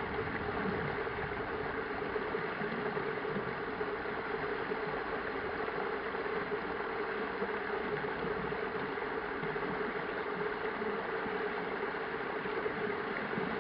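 Steady, even rushing noise with a constant low hum underneath, with no distinct events.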